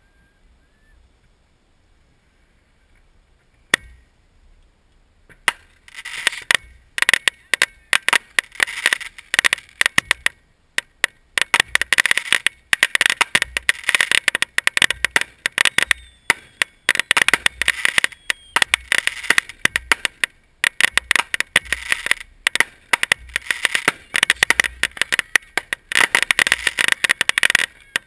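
Fireworks crackling: a single crack about four seconds in, then from about five seconds on a dense, rapid crackle that comes in waves a second or two long with short gaps between.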